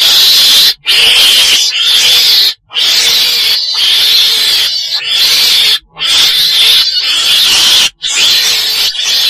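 Chồn đèn, a Mustela weasel, calling loudly in harsh, raspy, hiss-like stretches of one to three seconds each, broken by four short pauses. It is a call recording of the kind used to lure the animal into traps.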